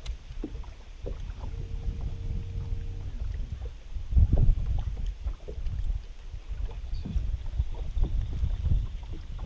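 Wind buffeting the microphone outdoors: an uneven low rumble that swells and drops in gusts, loudest about four seconds in, with a faint steady hum for a second or so early on.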